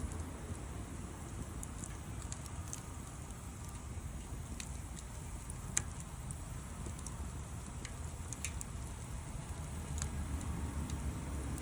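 Wood fire crackling, with scattered sharp pops over a steady low rumble; one pop about halfway through is louder than the rest.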